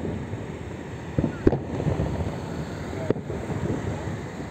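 Distant aerial fireworks shells bursting: three sharp bangs, two close together about a second in and another about three seconds in, over steady wind noise on the microphone.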